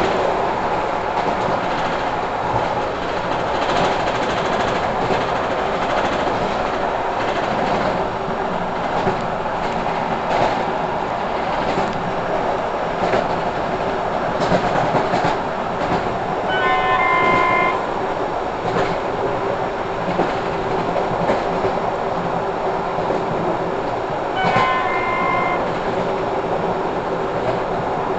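Passenger train running along the track, heard from inside the carriage: steady rolling noise with wheels clicking over the rail joints. Two short horn blasts sound, one a little past halfway and another about a second long some seconds later.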